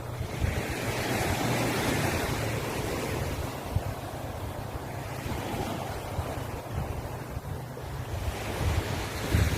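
Sea waves breaking on a beach: a wave washes in about a second in and slowly fades as it runs out. Wind gusts rumble low on the microphone underneath.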